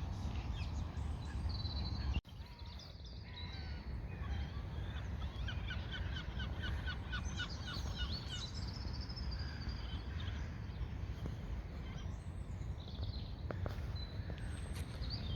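Songbirds singing and chirping outdoors, with a fast run of repeated notes from about six to nine seconds in, over a steady low rumble.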